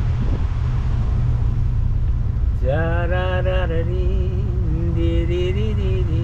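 Low steady rumble of a vehicle idling while stopped. From about two and a half seconds in, a wavering, held voice-like note sounds over it.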